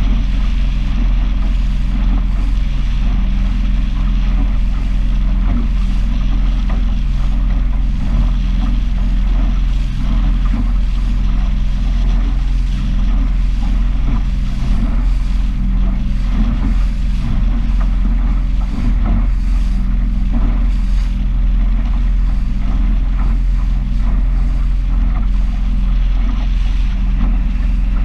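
Small powerboat's engine running at a steady speed, with water splashing against the hull.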